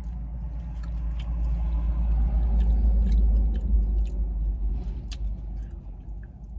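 Close-up chewing and light spoon clicks against a plastic bowl while eating mashed potatoes and chicken. Under them, the low rumble of a passing truck heard from inside a parked car swells to its loudest about three seconds in and then fades.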